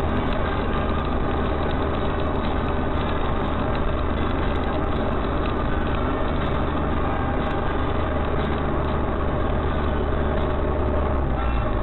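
A motor vehicle's engine running steadily, a constant low hum with no sharp impacts.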